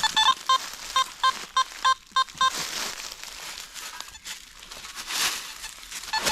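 Metal detector beeping on a target: about nine short beeps of the same pitch in quick succession over the first two and a half seconds. After that comes a stretch of rustling and scraping in the forest floor.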